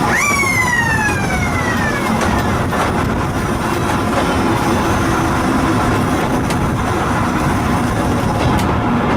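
Steady running noise of a vehicle. Right at the start, a high tone rises sharply and then slides down over about two seconds.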